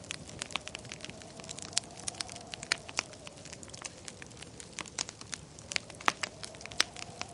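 Wood fire crackling and popping in a fireplace: irregular sharp snaps, several a second, some louder than others, over a soft steady hiss.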